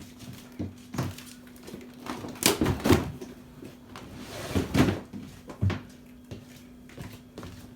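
Scattered knocks and thumps of things being handled and moved, with two louder clusters about two and a half and four and a half seconds in, over a steady low hum.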